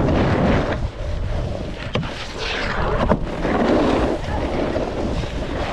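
Snowboard running fast over packed snow, its base scraping and hissing, with heavy wind rushing over the microphone. Two sharp knocks come about two and three seconds in.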